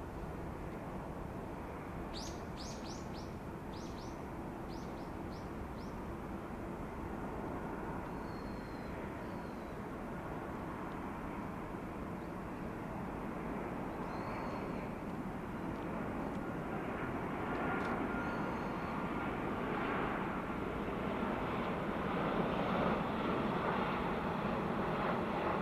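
Jet engine noise of a Boeing 777-300ER, steady and growing louder over the second half as the aircraft draws nearer. Small birds chirp in quick runs in the first few seconds, with a few more chirps later.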